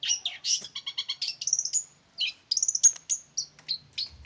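Male long-tailed shrike (cendet) singing a rapid, varied song of short high chirps and downward-sliding whistled notes, with a quick run of repeated notes about a second in.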